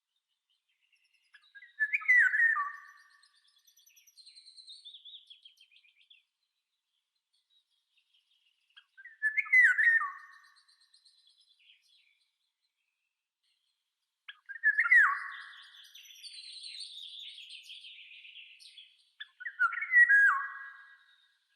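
Songbird calling: four short, loud call phrases, each ending in a falling note, spaced about five to seven seconds apart, with fainter, higher twittering in between.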